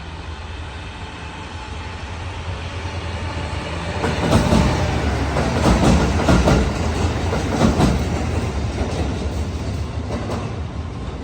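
A train approaching and passing close by, with a steady low rumble that builds, then its wheels clacking over rail joints for a few seconds midway before the sound eases off.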